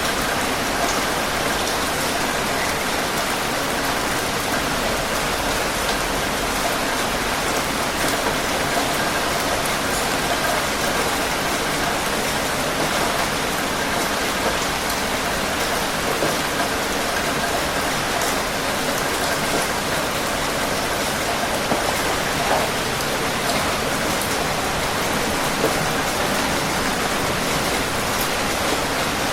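Steady rain falling, a constant even hiss with scattered individual drops ticking on a surface.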